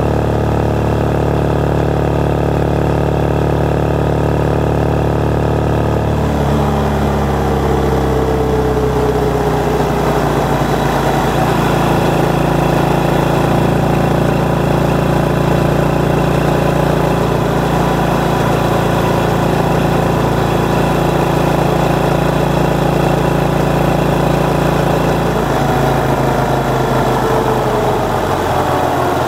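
Motorcycle engine running on the move, picked up by an external microphone on the bike rather than the camera's own. The engine note holds steady, changes about six seconds in and again about 25 seconds in, and rises near the end as the bike speeds up.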